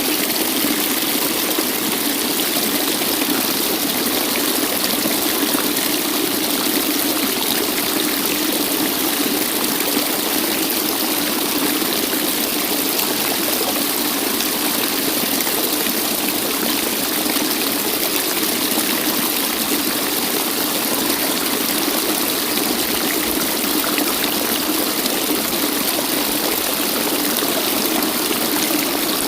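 Waterfall: water falling and splashing in a steady, unbroken rush with plenty of high hiss.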